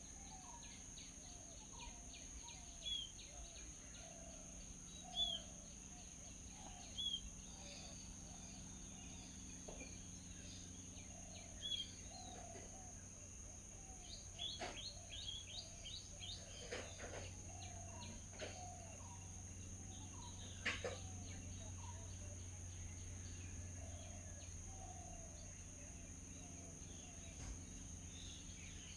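Wild birds calling: a short high chirp repeated every two seconds or so over softer, lower repeated notes, with a flurry of chirps about halfway through. A couple of sharp clicks stand out near the middle, over a steady high hiss.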